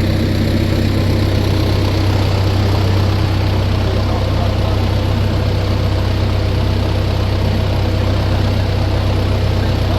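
An engine running steadily at idle, a loud, even low drone.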